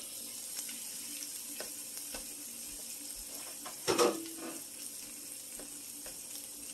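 Vegetable fried rice sizzling quietly in a frying pan just uncovered, with scattered small crackles and a single louder clunk about four seconds in.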